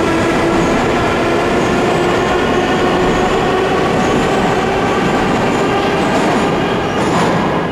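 Passenger train carriages rolling past, a steady rumble of the wheels on the rails with a sustained metallic squeal held over it.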